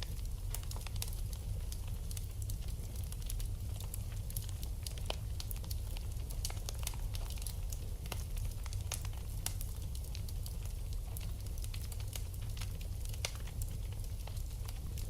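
Wood fire burning in a fireplace, with steady irregular crackling and small pops over a low, even rumble.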